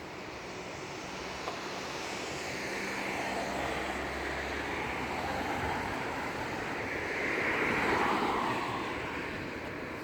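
Road traffic passing: a steady rush of tyre and engine noise that swells and is loudest about eight seconds in, then eases.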